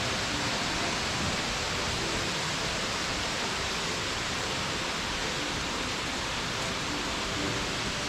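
Water rushing steadily, a forest stream or small waterfall, as an even hiss.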